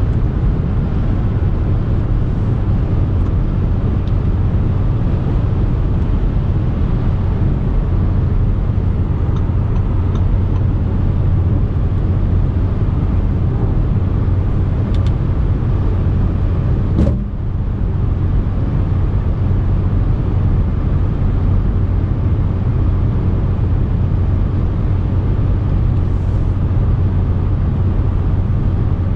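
Audi SQ5 3.0 TDI's V6 diesel driving at a steady pace, with a constant low engine drone under road and wind noise. About seventeen seconds in, a brief dip and click breaks the drone.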